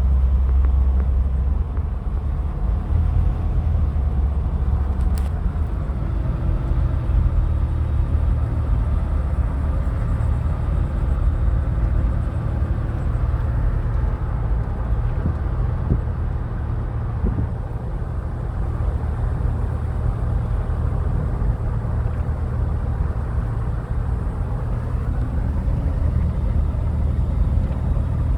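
Car driving: a steady low rumble of engine and road noise, with a faint hum coming and going.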